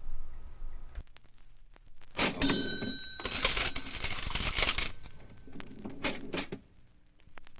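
Cash register sound effect: a few clicks, then a bell ding about two seconds in, followed by a stretch of rattling clatter and more clicks that stops about six and a half seconds in.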